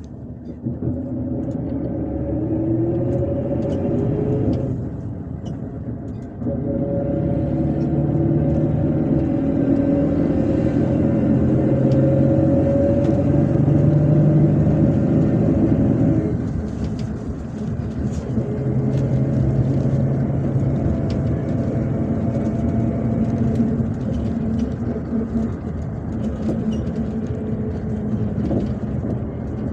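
MAZ-257 coach's engine and drivetrain heard from inside the cabin while under way. The pitch rises as it pulls, eases off about five seconds in, climbs again, then drops at about sixteen seconds and runs steadily.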